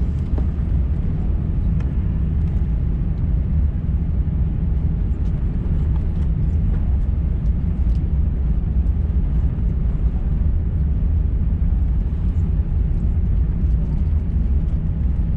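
Steady low rumble of an Airbus A350-900's engines and cabin heard from a window seat, with no change in pitch or level.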